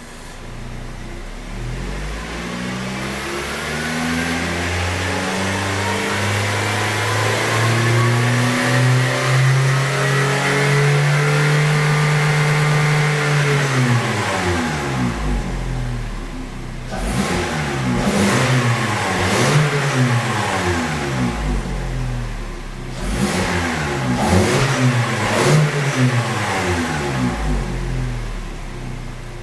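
Toyota 90-series Noah/Voxy exhaust through a Suruga Speed PFS Loop Sound aftermarket muffler, the engine revved: one long slow rise in pitch held high and let fall, then two runs of quick repeated throttle blips.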